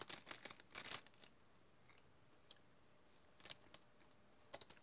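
Faint mouth clicks and smacks from chewing a bite of raw dark chocolate, a cluster in the first second and a few more near the end, with near silence between.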